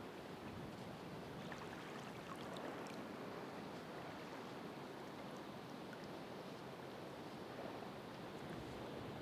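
Ocean waves washing onto the shore in a steady wash of surf, with faint crackling of water and small fizzing ticks in the first few seconds.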